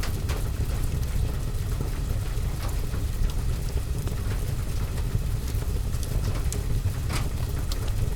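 Steady rain on a window and roof, with a deep even rumble underneath, and a fireplace fire crackling with a few sharp pops, the clearest of them about seven seconds in.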